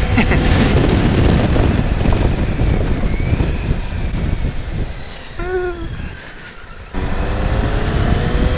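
Wind rushing over the microphone of a moving motorcycle, mixed with engine and road noise. The noise eases from about five seconds in, with a brief pitched wavering sound at that point, then returns sharply about seven seconds in.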